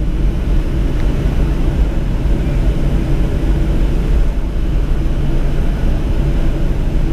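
Cabin noise inside a Boeing 737 taxiing after landing: a steady low rumble from the engines and airflow, with a constant hum over it.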